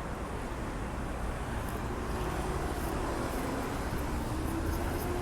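Steady rumble of road traffic, heavy in the low end.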